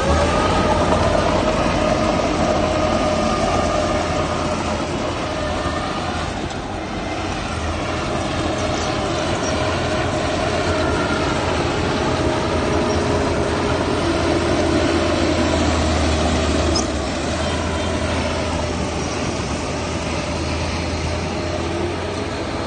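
Heavy earthmoving machinery working: a diesel engine running steadily under load with a deep rumble, overlaid by held high-pitched squealing tones. The level dips briefly about two-thirds of the way through.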